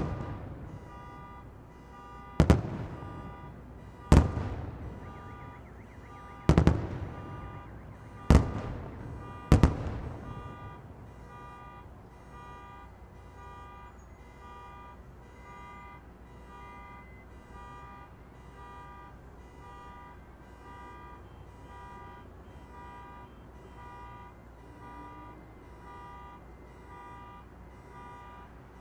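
Fireworks shells bursting in the distance: five loud booms in the first ten seconds, each echoing away. A steady electronic beeping of several tones repeats throughout, alarm-like.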